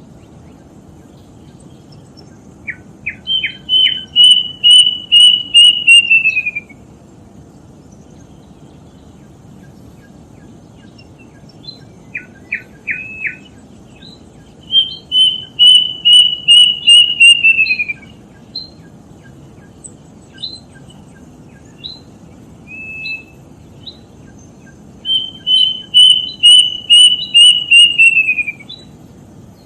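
Kedasih cuckoo singing: three phrases, each a run of about eight clear whistled notes that hold steady and then slide down in pitch at the end, each led by a few short lower notes. A few single chirps fall between the second and third phrase, over a steady low background noise.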